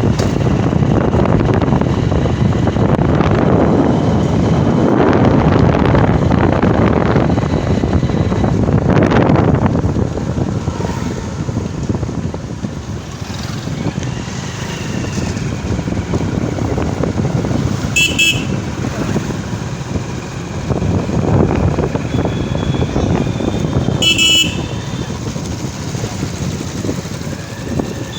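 Road traffic and wind noise heard from a moving motorcycle, loudest in the first ten seconds. Two short horn toots sound about six seconds apart in the second half.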